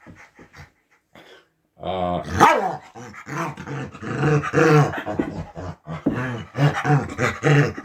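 Dog grumbling and groaning in long, pitch-sliding vocalizations while being rubbed on its back, a contented 'talking' noise. It starts about two seconds in, after a near-quiet pause.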